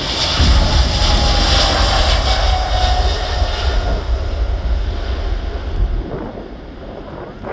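Jet airliner's engines at takeoff thrust, passing close by: a loud rumble and hiss with an engine tone that slides down in pitch as the aircraft goes past. The rumble drops away about six seconds in.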